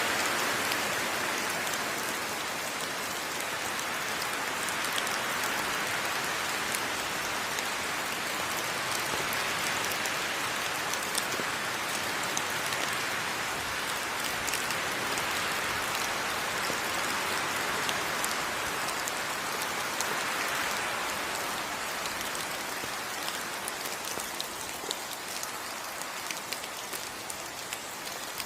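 Steady heavy rain in a tropical rainforest: a dense, even hiss that slowly swells and eases, with individual drops clicking sharply, more distinct near the end as the hiss thins a little.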